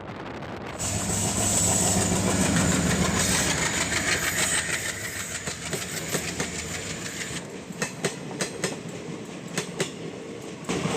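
Train running on the rails: a steady rush of noise, then from past halfway a series of sharp clacks as the wheels cross rail joints.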